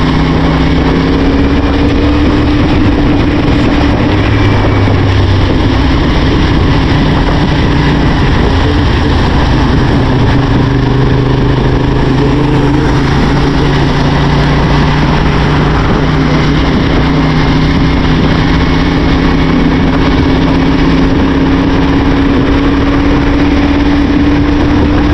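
CF Moto 450SR's parallel-twin engine running at a fairly steady cruising speed, under heavy wind and rain noise. The engine note drifts only slightly up and down.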